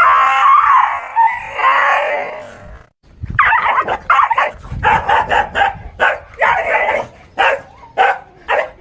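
A dog gives a long wavering howl or whine, then breaks into rapid barking and yelping at about three barks a second.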